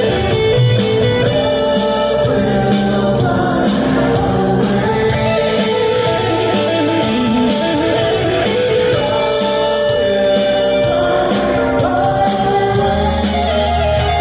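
Live yacht-rock band playing a song, with singing over electric guitar, bass and drums.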